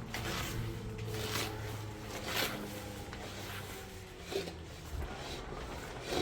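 A few short rough scraping strokes on a hard surface, the loudest about two and a half seconds in, over a low steady hum.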